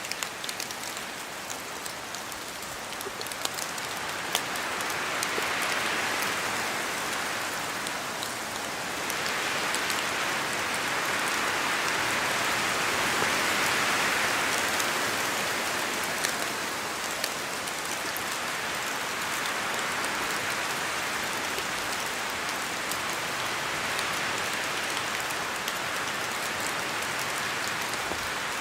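Steady rain falling on forest trees, with many small sharp drips. A rushing swells and fades twice, wind gusting through the wet trees.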